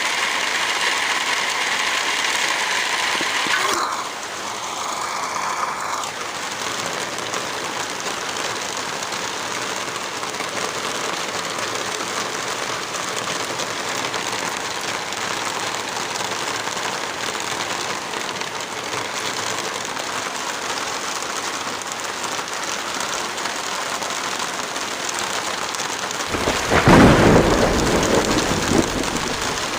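Heavy rain falling steadily, with a loud clap and rumble of thunder lasting a few seconds near the end.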